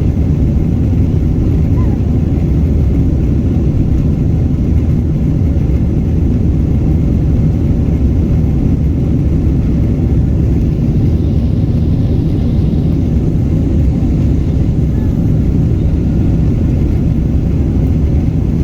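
Steady low rumble of a Boeing 777-200ER's engines and airframe heard from inside the passenger cabin, even in level with no clear rise or fall.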